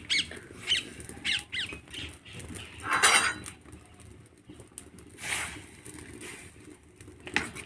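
Birds calling: a few short, falling chirps in the first two seconds, then a louder, harsher squawk about three seconds in.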